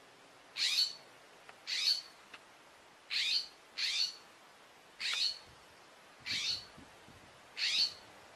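A bird calling: seven short, high-pitched chirps, each a quick downward sweep, spaced about a second apart.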